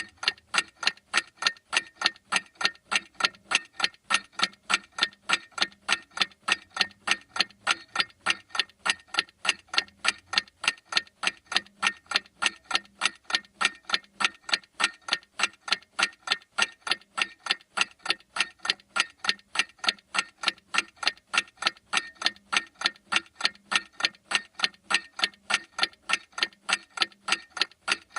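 Clock ticking steadily, with sharp, evenly spaced ticks several times a second.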